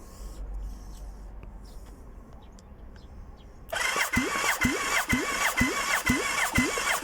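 Yamaha V-Max 1200 V4 engine being turned over on its electric starter for a compression test. It starts about four seconds in: a starter whine that dips evenly about twice a second as each compression stroke loads it, without the engine firing.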